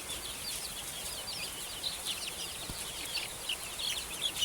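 A brood of chicks peeping: many rapid, high-pitched cheeps overlapping, getting busier near the end. It is the kind of loud, constant peeping chicks make when they are cold and need warmth.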